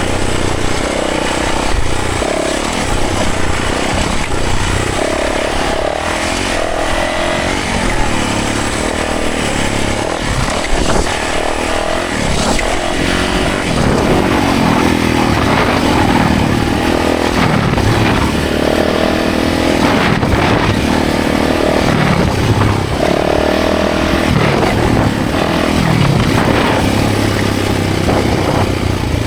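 Yamaha 450 dirt bike's four-stroke single-cylinder engine under hard riding, revving up and dropping back again and again as the rider works the throttle and gears.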